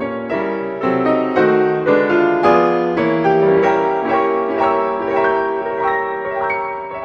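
Background piano music: notes played one after another in a flowing melody, several a second, over held chords.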